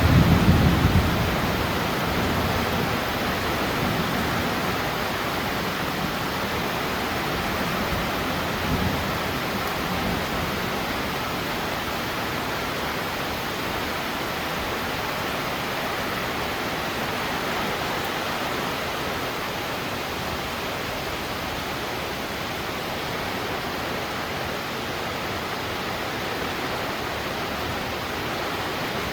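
Heavy rain pouring steadily, a dense even hiss. The tail of a thunder rumble fades out in the first second or two, with fainter low rumbles a few seconds later.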